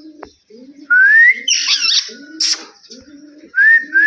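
Indian ringneck parrot giving loud rising whistles about a second in and twice near the end, with a harsh screech between them, over a low cooing call repeated about twice a second.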